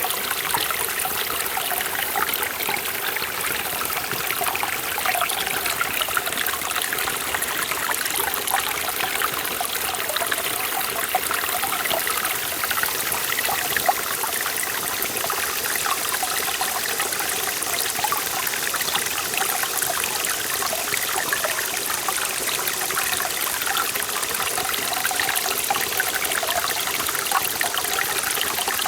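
Forest mountain stream flowing over rocks, a steady rushing and splashing with small trickles and gurgles throughout.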